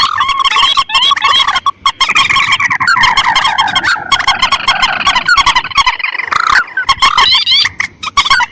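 Bird-lure recording of rice-field rails and crakes (mandar and tikusan) calling: a dense, continuous run of rapid, repeated chirping calls layered over one another, played to draw the birds in.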